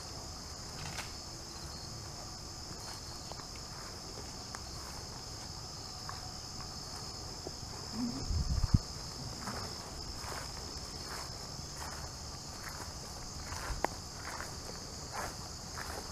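Steady high-pitched chorus of crickets and other insects. From about halfway on come soft footsteps through grass, and there is a short low thump about halfway through.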